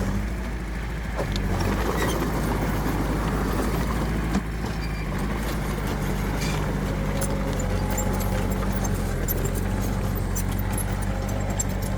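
Heavy diesel earthmoving machinery running steadily, with scattered short metallic clicks and clanks over the engine sound.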